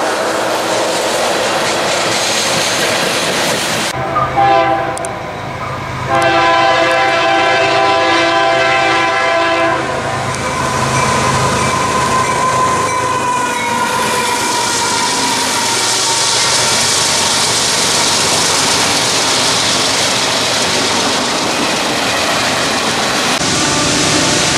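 Freight train rolling past with steady wheel-on-rail noise. About four seconds in a diesel locomotive's chord air horn sounds several notes at once: a short blast, then a longer one of about four seconds. Steady rolling noise of the passing train follows.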